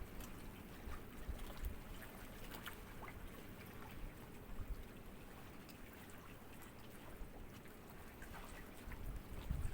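Gentle sea ripples lapping at the shore, a soft steady wash dotted with small trickling splashes; a low wash swells up near the end as a slightly bigger wave comes in.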